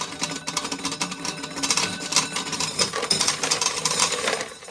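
Corn being shelled: a dense, irregular clatter of dry kernels rattling as they are stripped from the cobs, dying away near the end.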